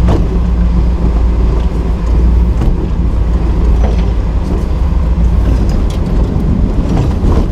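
Nissan GQ Patrol competition truck's engine running steadily, heard from on board, with a few sharp knocks from the body and chassis.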